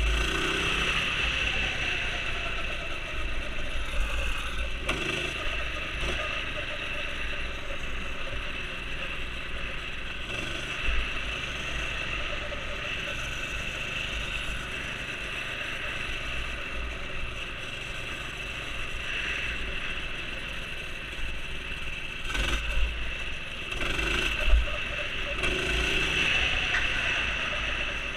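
Minibike's Predator single-cylinder four-stroke engine running as it is ridden through mud, the engine note rising and falling with the throttle. Near the end come a few louder sharp knocks.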